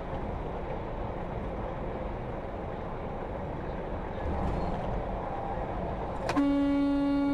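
Steady road and engine noise, then about six seconds in a loud truck horn blast starts suddenly and is held on one steady tone.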